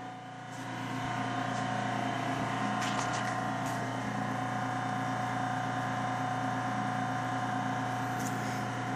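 HVAC blower running with a steady hum, building up over the first second and then holding level.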